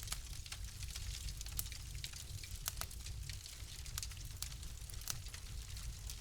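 Wood fire crackling in a fireplace: frequent, irregularly spaced sharp snaps and pops over a steady low rumble and hiss.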